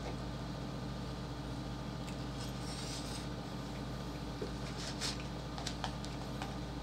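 Eating sounds: a fork clicking and scraping in a cardboard box of spaghetti, with mouth noises of chewing, over a steady low hum. The sharpest clicks come in a cluster a little past the middle.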